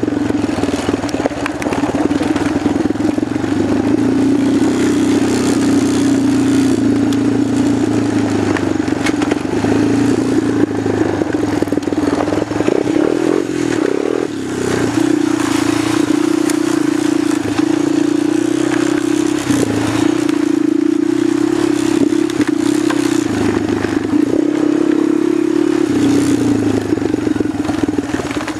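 Single-cylinder 250-class ATV engine running steadily under throttle while riding. Its pitch steps up slightly about halfway through and dips briefly a few times as the throttle eases.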